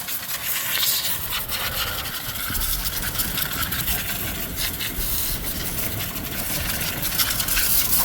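Kubota tractor engine running steadily in a muddy field, a low rumble under a constant hiss with many small crackles.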